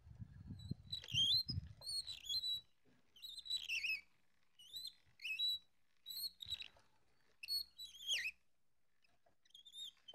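A songbird singing short whistled phrases that sweep down in pitch, about one a second. For the first two and a half seconds there is also a low metallic clattering as the cutaway scooter engine's crankshaft, piston and valve gear are turned by hand.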